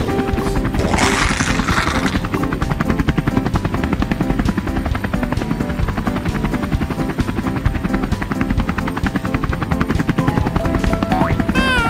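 Helicopter rotor sound, a fast steady chopping, with music underneath. Just before the end a pitched sound starts that falls in pitch.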